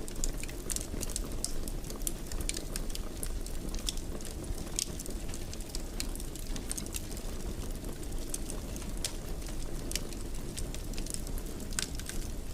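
Fire burning in a fireplace: a steady low rumble of flames with frequent sharp crackles and pops scattered through it.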